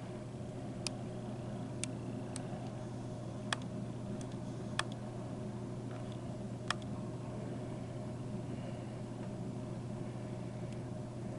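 A steady low mechanical hum, with about seven short sharp clicks scattered through the first seven seconds.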